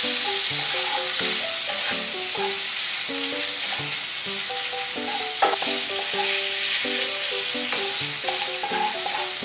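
Chicken pieces sizzling as they fry in butter in a frying pan, stirred with a spatula, with one sharp knock about five and a half seconds in. Light background music plays under the sizzling.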